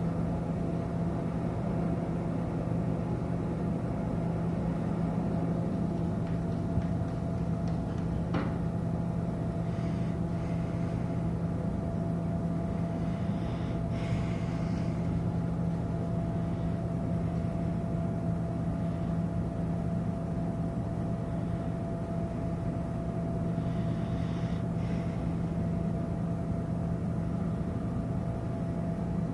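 Steady low mechanical hum of the cruise ship Mein Schiff 4's machinery while docking, with a constant higher tone over it and a few faint short knocks and rustles in between.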